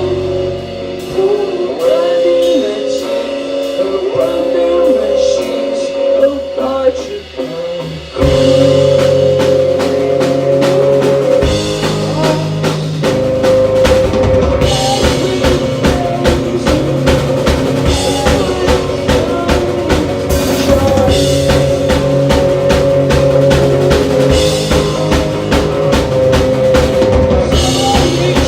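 Live rock band playing an instrumental passage. Guitars ring and bend over a sparse beat, then about eight seconds in the full band with drums comes in loud. From about eleven seconds on the drumming is fast and steady.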